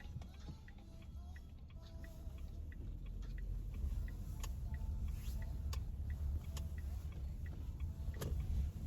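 Car turn-signal indicator ticking evenly, about two to three ticks a second, over the low rumble of an SM3's cabin while driving. A few sharper clicks come in the second half.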